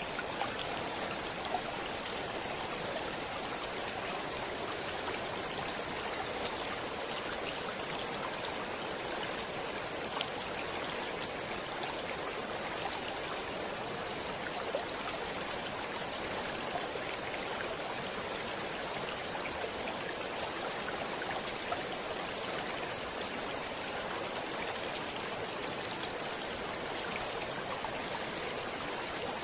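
A stream running steadily over stones, a continuous rush of water with small splashes and trickles scattered through it.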